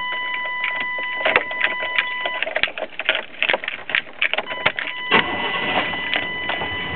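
A run of clicks and clacks from the truck's factory cassette/CD stereo being operated, then music starting to play from the stereo about five seconds in. A steady high whine runs underneath and drops out for a couple of seconds in the middle.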